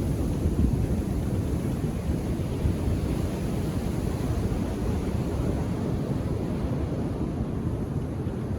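Indian Ocean surf breaking on a beach: a steady low rumble of waves, with no single crash standing out.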